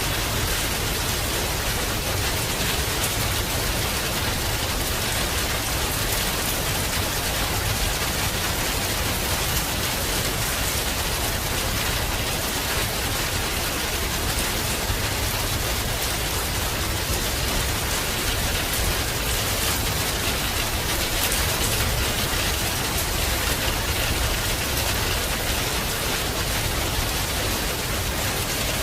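Heavy rain falling steadily: a dense, even hiss of many drops, with a low steady rumble underneath.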